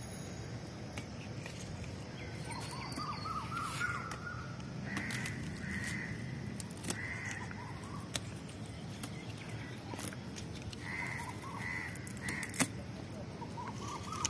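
Birds calling: short calls repeated in two groups of three, with a few rising chattering runs in between, and scattered light clicks of handling.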